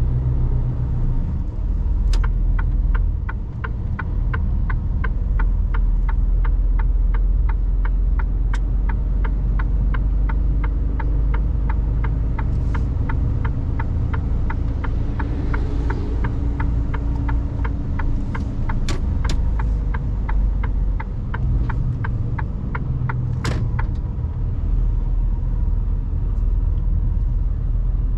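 Mercedes Actros truck's diesel engine running, heard from inside the cab. Over it, the turn-signal indicator ticks evenly, about two ticks a second, from about two seconds in until it stops near twenty-three seconds in.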